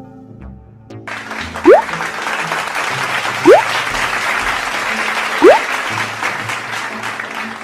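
Applause sound effect over light background music, with three short rising whistles about two seconds apart standing out above the clapping.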